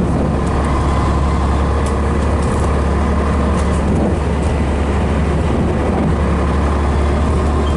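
Scania Metropolitan double-decker bus's Scania DS11 diesel engine running steadily, with a deep even rumble.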